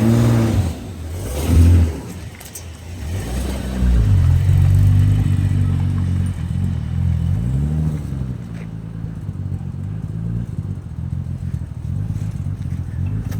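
Nissan 300ZX's swapped-in twin-turbo V6 engine revving in a few short blips, then running steadily under light throttle as the car pulls away, slowly getting quieter.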